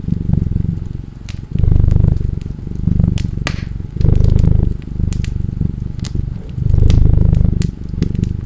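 Cat purring close up, the purr swelling and easing with each breath about once a second, over a fireplace fire crackling with scattered sharp pops.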